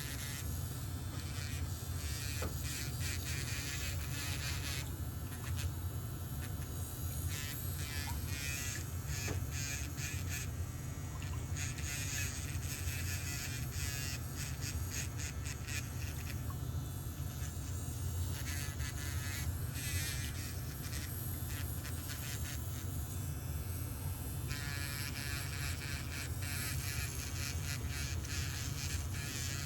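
Electric nail drill buzzing steadily on a toenail. The higher grinding sound comes and goes every few seconds as the bit works the nail.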